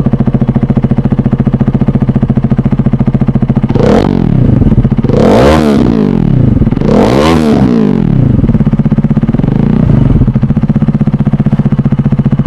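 Motorcycle engine breathing through an SC Project aftermarket muffler, idling with a steady pulse. About four seconds in, three quick throttle blips sharply rise and fall, then a smaller one, before it settles back to idle.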